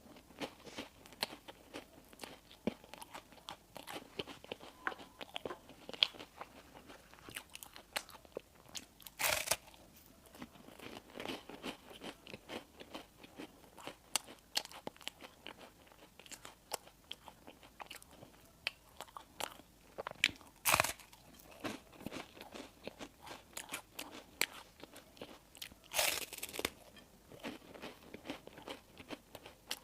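Close-miked eating: continual crackly chewing with crunchy bites into crispy bread, three bites markedly louder than the rest.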